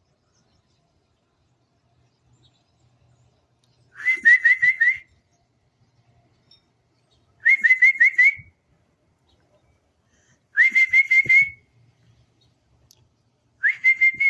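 Person whistling to call birds: four short phrases of about five quick rising notes each, repeated about every three seconds.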